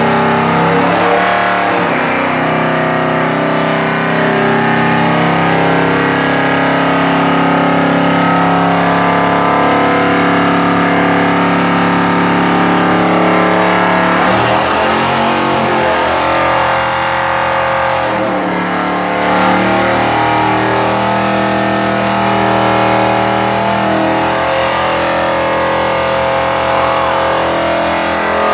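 Plymouth Road Runner's V8 engine held at high revs through a burnout, the rear tires spinning in place. The revs drop briefly about halfway through and again a few seconds later, then climb back.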